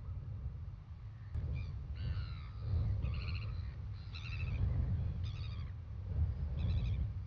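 Bird calls: a falling call about two seconds in, then a series of short, stuttering high calls roughly once a second. Wind rumbles on the microphone underneath.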